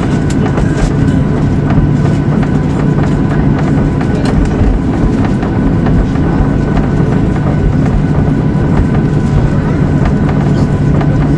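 Airliner cabin noise: the jet engines drone steadily under a loud rumble, with scattered short knocks and rattles.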